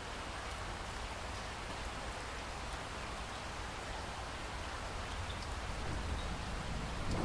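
Steady rain falling, a dense even hiss with a few separate drop ticks, slowly growing louder; a low rumble starts to build near the end.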